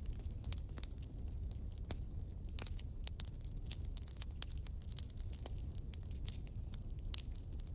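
Campfire crackling: irregular sharp snaps and pops of burning wood over a steady low rumble, with a brief faint whistle about three seconds in.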